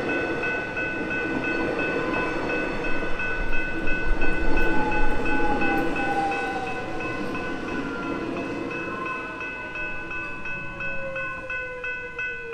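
Metro X'Trapolis electric suburban trains rumbling across a level crossing, loudest a few seconds in, while the crossing's electronic warning bells ring in a fast repeating pattern. As the trains clear, an electric motor whine falls in pitch and the bells keep ringing.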